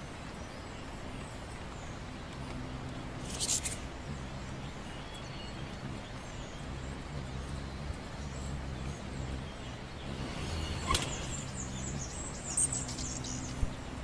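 Birds chirping: a few short high chirps, a falling chirp near the middle and a quick cluster near the end, over a low steady hum.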